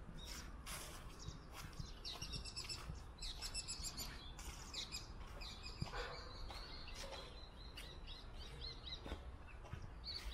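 Small birds chirping and calling: many short, high notes overlapping, with a quick run of repeated notes a few seconds in and a series of rapid notes on one pitch through the second half.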